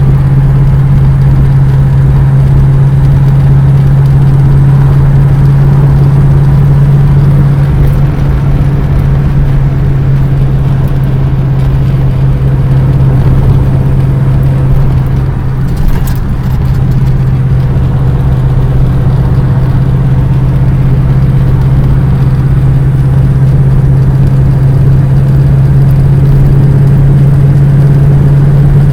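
Vehicle engine running at a steady speed, a loud constant drone, with a brief knock about sixteen seconds in.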